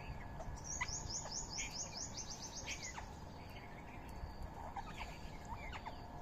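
Birds chirping outdoors. A rapid run of about fifteen high, down-slurred notes speeds up over about two seconds, and scattered shorter chirps follow.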